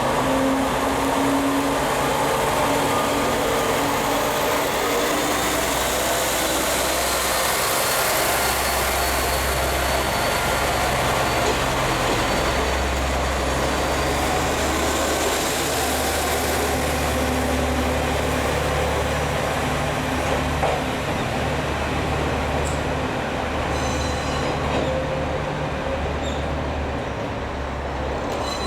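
A train moving on the rails with steady running noise and faint high wheel squeal, easing off near the end.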